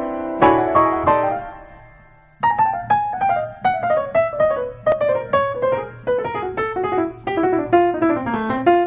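Background piano music: a few sustained chords that die away, then after a short pause a run of quick notes over a low bass line.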